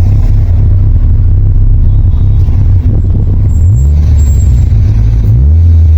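Toyota Celica GTS's freshly rebuilt 2ZZ-GE four-cylinder engine running, its pitch rising about two-thirds of the way through and again near the end.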